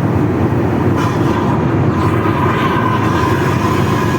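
Steady rumble of an airliner cabin in flight: engine and airflow noise, with a faint high whine about a second in.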